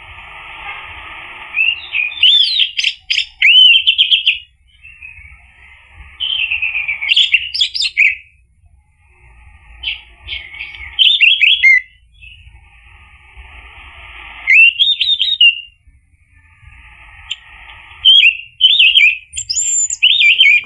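Orange-headed thrush singing: five fast, varied phrases of sweet whistled notes with quick slurs, each lasting a second or two, with short pauses between them. A steady hiss fills the pauses.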